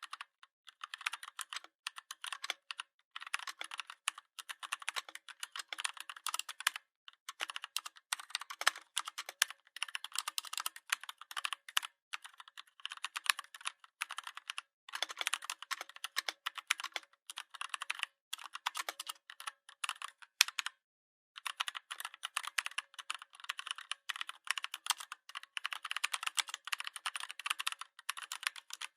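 Typing on a computer keyboard: rapid key clicks in continuous runs with short pauses between them, the longest pause about two thirds of the way through.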